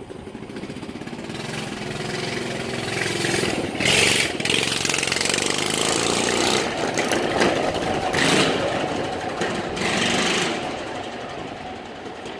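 A pocket bike's 6.5 hp single-cylinder engine running under throttle, growing louder with three sharper surges of revving, then fading away toward the end.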